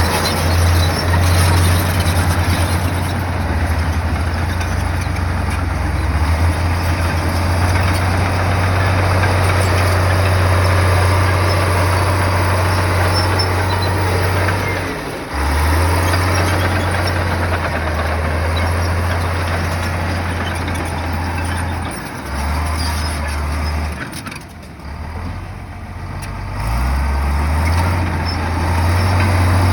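Bulldozer's heavy diesel engine running under load, its low hum stepping up and down in pitch. It drops out briefly about fifteen seconds in and runs quieter for a few seconds near the end before coming back up.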